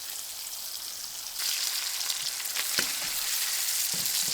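Sliced ham sizzling as it fries, crisping up like bacon. The sizzle is a steady hiss that gets louder about a second and a half in, with a few short clicks.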